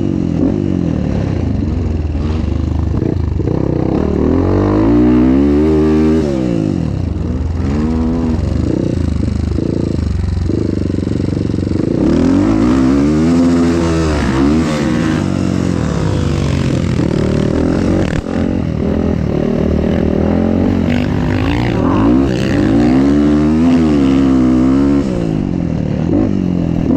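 Dirt bike engine being ridden hard, its pitch climbing and falling back again and again as the throttle is opened and closed.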